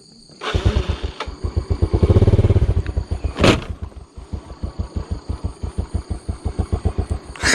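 Motorbike engine starting to pull about half a second in, revving up harder around two seconds in, then running at lower revs with an even pulse as the bike climbs over rocks. A sharp knock about three and a half seconds in.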